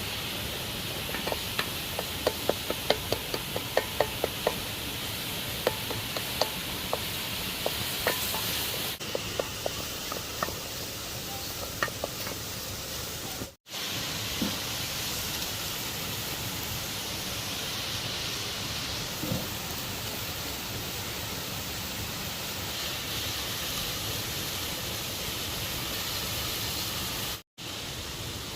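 Steady rush of a waterfall, with a run of quick knocks in the first twelve seconds as a cooking utensil works against a pot.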